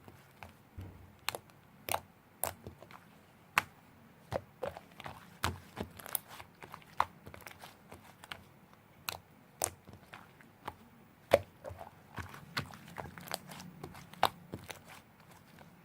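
Slime being squeezed and worked by hand, giving irregular sharp clicks and crackles about twice a second.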